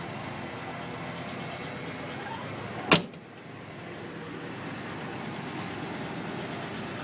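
1991 Ford F-150 engine idling steadily. About three seconds in, a single sharp knock cuts across it, after which the sound is briefly quieter before it settles back.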